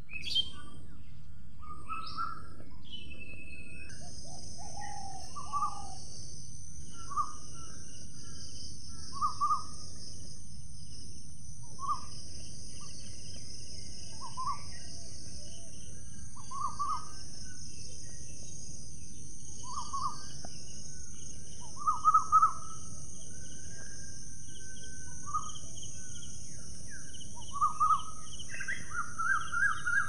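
Birds calling with short, clear notes repeated every second or two, loudest about two-thirds of the way through and near the end, over a steady low background hiss. A steady high-pitched drone comes in about four seconds in.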